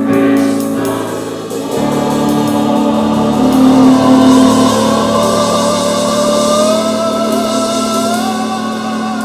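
Choir singing with long held notes; a higher vocal line rises in pitch in steps through the middle.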